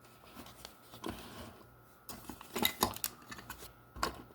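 A small Tonka toy van being handled and turned over, giving light clicks and clatter, thickest about two to three and a half seconds in, with a single knock near the end.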